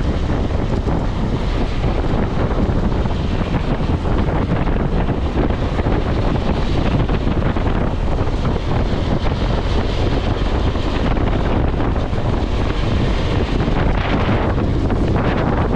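Wind buffeting the microphone on a moving BMW F 650 GS motorcycle, a steady loud rush with the bike's running noise beneath it.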